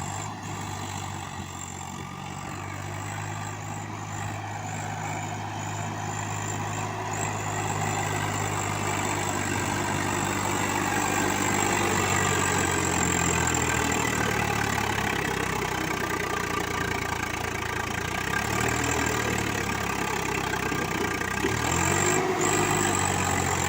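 Heavy diesel engine running steadily at a low idle, its pitch rising and falling slightly a few times.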